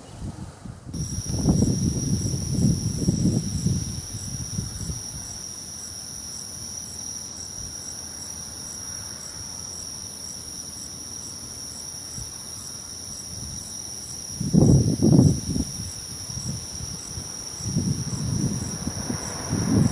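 Crickets and other night insects singing in steady, high-pitched trills, with a regular pulsing chirp among them. Gusts of wind buffet the microphone with low rumbles now and then, strongest near the start, about three-quarters of the way through and at the end.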